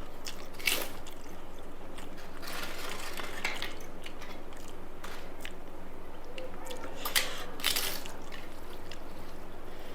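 Close-up eating sounds: wet chewing and mixing of rice and fried food. Sharp crunches come about a second in and again around seven seconds in.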